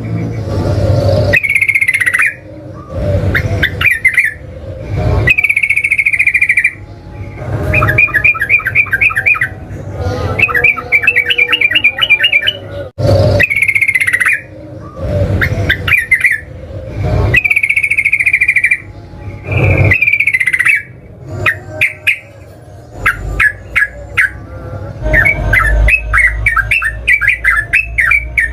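Yellow-vented bulbul singing loudly: repeated bubbly phrases a second or so long, broken by runs of rapid, chattering short notes (the 'ropel').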